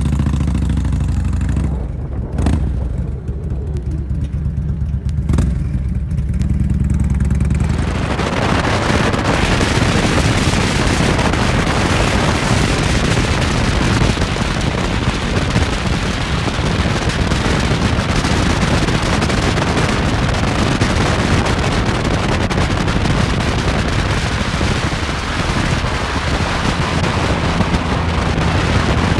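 Motorcycle engine running with a steady low hum. About eight seconds in, loud wind noise on the microphone takes over for the rest of the ride.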